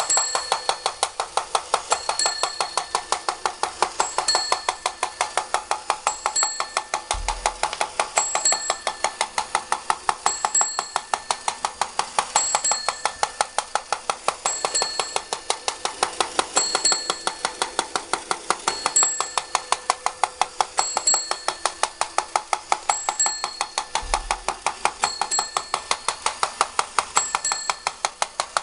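Vintage battery-operated tin fire boat toy running: its mechanism clatters in a rapid, even stream of metallic clicks, and a bell dings about every two seconds.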